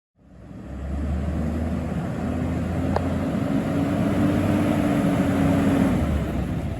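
Garbage truck engine running steadily, fading in over the first second, with one brief sharp tick about three seconds in.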